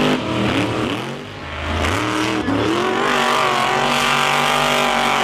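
Monster truck engine revving hard. It eases off about a second in, climbs again with a rising rev near the middle, then holds steady at high revs for the rest.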